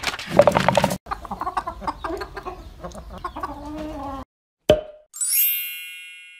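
Cartoon hens clucking and cackling loudly, then a single short knock as a wooden mallet strikes an egg, followed by a bright ringing ding that slowly fades.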